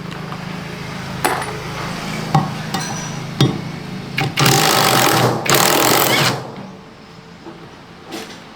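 Repair work on a washing machine: a steady mechanical hum, with sharp metal knocks about once a second. Two loud hissing bursts of about a second each follow, and the hum stops with the second one.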